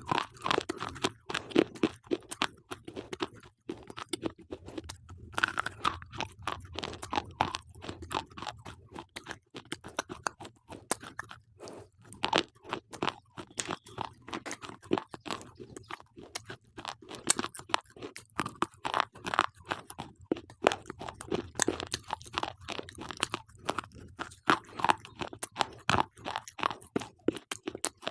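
Slate pencils being bitten and chewed close to the microphone: a dense, irregular run of crisp crunches.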